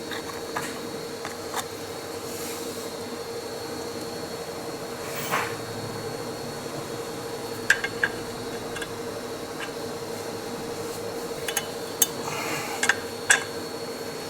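Metal tools and parts clinking and tapping with scattered light clicks, a few sharper ones in the second half, over a faint steady hum.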